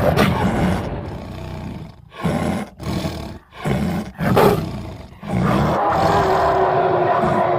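Giant jaguar monster's roars, a designed creature effect built from big-cat roar recordings: a roar fading over the first two seconds, four short roars in quick succession, then a long steady roar from about five seconds in.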